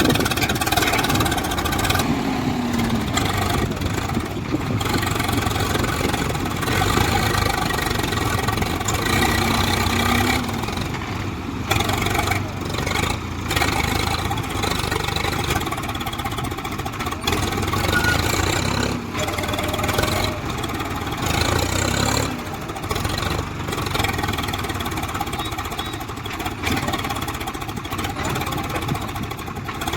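Diesel tractor engine running steadily under load, the level rising and falling a little, as the tractor works to pull free of deep sand.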